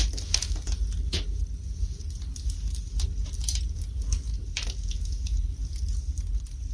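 Wood fire burning in a fireplace, with a steady low rumble and irregular crackles and sharp pops of the burning logs.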